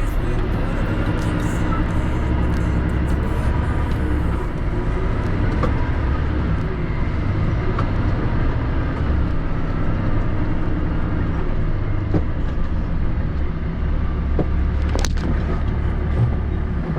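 An HGV tractor unit's diesel engine running steadily with a low hum, and a single sharp click about fifteen seconds in.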